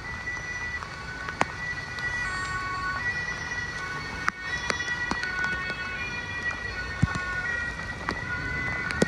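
Emergency-vehicle siren sounding with held tones that switch between several pitches, over heavy rain with scattered sharp clicks of drops.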